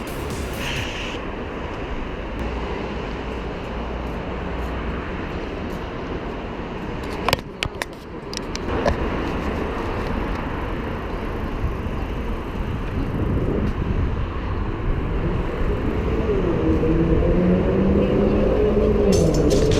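Steady road and traffic noise recorded from a moving bicycle, with a few sharp clicks about halfway through. A pitched sound with several tones comes in about three-quarters of the way through, sliding in pitch and getting louder near the end.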